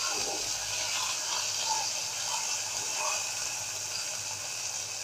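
Potato sticks sizzling steadily as they fry in hot oil in a frying pan, turned now and then with a silicone spatula.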